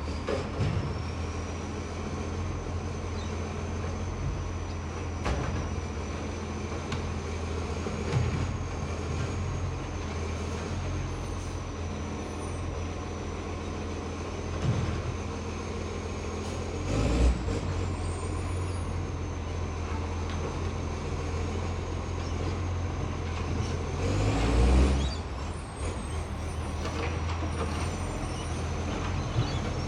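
Garbage truck diesel engine running with a loud exhaust leak: a steady low drone under a steady high whine. It swells briefly a little past halfway and again about three quarters through, the whine rising each time.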